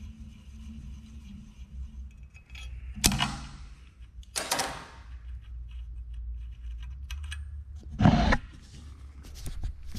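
Small metal parts clinking and knocking as they are handled and set down on a workbench: a few sharp knocks about three, four and a half and eight seconds in, the last the loudest, then lighter ticks, over a low steady hum.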